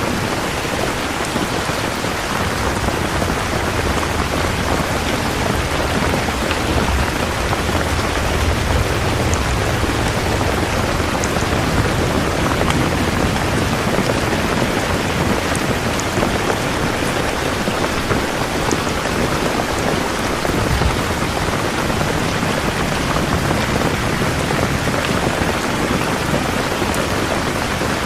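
Steady heavy rain falling, a dense even hiss of drops, with a low rumble that swells in the middle and fades again.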